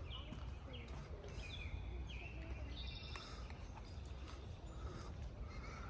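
Faint birds chirping and calling in short, scattered notes over a steady low rumble of outdoor background noise.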